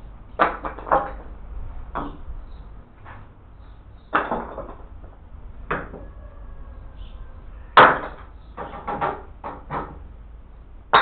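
Irregular knocks and clunks of hand building work, a dozen or so unevenly spaced, some in quick clusters, the loudest about three-quarters of the way through.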